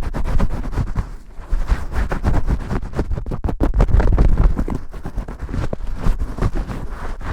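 Vigorous shampoo-style scrubbing and scratching right at the microphone: a dense run of quick, irregular strokes, heavy in the low end.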